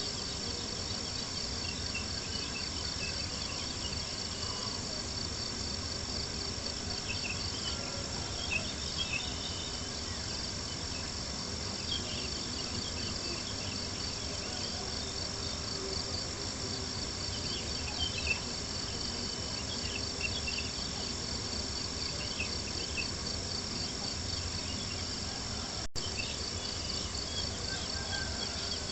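Crickets chirping in a steady, fast-pulsing chorus, with scattered small crackles and a few sharper pops from a campfire over a soft low background hiss.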